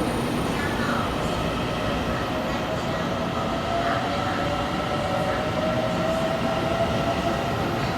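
Taiwan Railways EMU900 electric multiple unit pulling out of the station, its wheels rumbling on the rails under a faint whine that climbs slowly in pitch as the train gathers speed.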